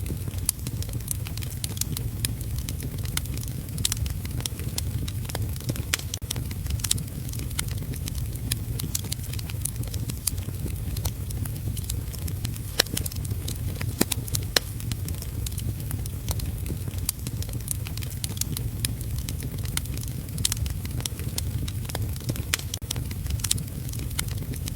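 Wood fire in a fireplace crackling, with irregular sharp pops scattered throughout and a few louder ones about halfway through, over a steady low rush of heavy rain.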